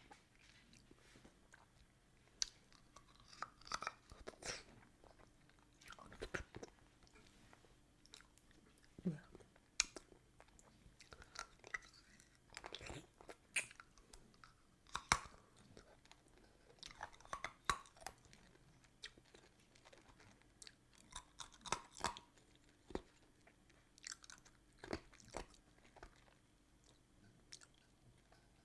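Ice cubes being chewed close to the microphone: irregular sharp crunches and cracks with wet mouth sounds in between, in uneven clusters.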